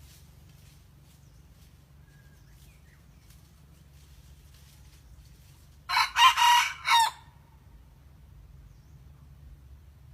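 A red junglefowl rooster crows once, about six seconds in: a short crow of about a second, in four quick parts.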